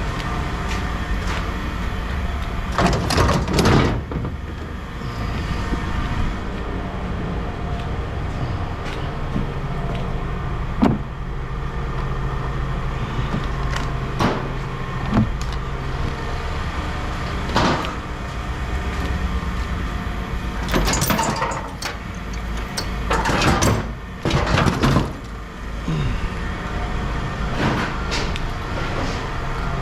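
Vehicle engine idling steadily, with scattered metal clanks and bangs of scrap being handled, the loudest clusters about three seconds in and again near the end.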